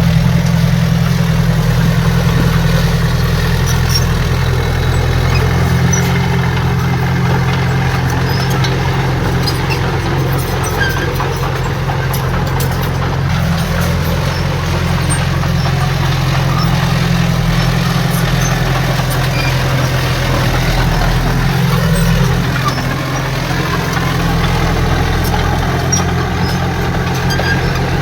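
Heavy diesel engine of earthmoving equipment running steadily, a loud low hum with a brief dip in level a little past three quarters of the way through.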